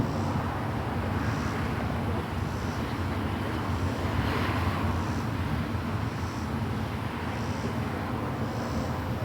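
Steady low vehicle engine rumble, swelling a little about halfway through, with a faint high chirp repeating about once a second.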